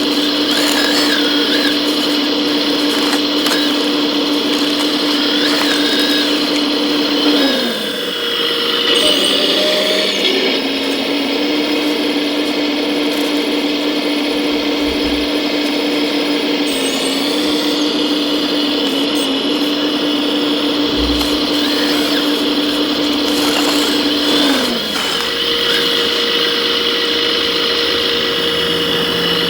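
Small electric drive motors and hydraulic pumps of 1:14-scale RC construction machines whining steadily. The pitch shifts a few times: it drops away about a quarter of the way in, comes back, and falls again near the end.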